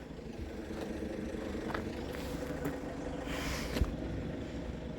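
Steady low hum of a vehicle engine running, with a short hiss a little over three seconds in and a thump just after.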